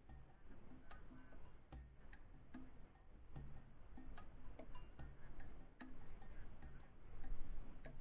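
Close-up eating sounds: irregular chewing with sharp wet mouth clicks and ticks, and short low thumps every second or so.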